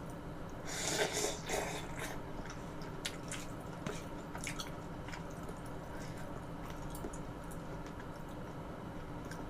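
Close-miked mouth sounds of eating: a bite about a second in, then soft wet chewing with scattered small mouth clicks.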